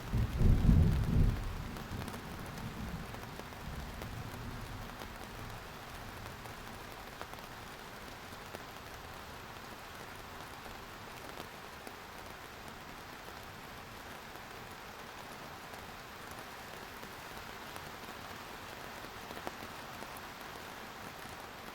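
Steady rain falling, with a low clap of thunder right at the start that rumbles away over about five seconds.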